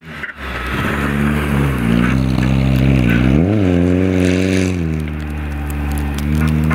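Audi A4 Quattro rally car engine revving hard under load as the car drives through a corner and away. The pitch dips and then rises sharply about three and a half seconds in, falls back a second later, and then holds steady.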